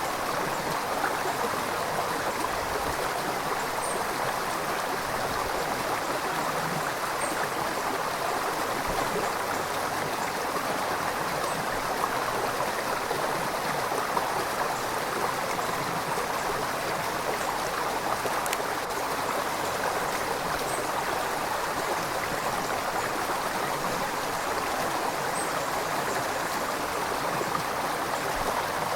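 River water flowing over rocks: a steady, even rushing and burbling with no break.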